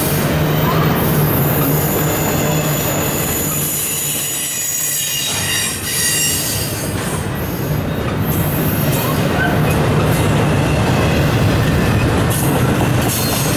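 Freight train rolling past, its steel wheels on the rails giving a steady, loud noise with a thin, high wheel squeal.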